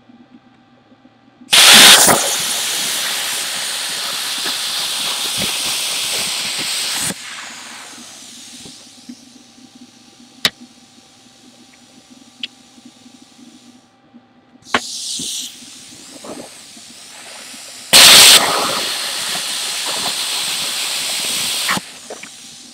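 Plasma cutter cutting thick aluminum at 50 amps: two cuts, each starting with a sharp crack as the arc strikes and then running as a steady loud hiss for about four to five seconds before cutting off. After the first cut a quieter rush of air runs on and fades.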